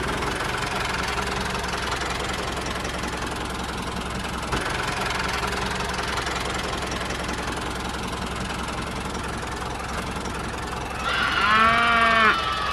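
A small engine runs steadily with a low rumble, as a mini tractor's does. Near the end a cow moos once.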